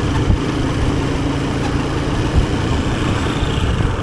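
Motorcycle engine running steadily during a ride, its hum constant throughout.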